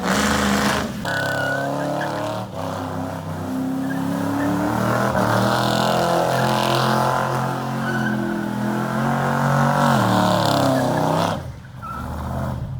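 Car engine revving hard and held at high revs with wavering pitch, with tyre squeal, as a car spins or skids. It drops away suddenly near the end.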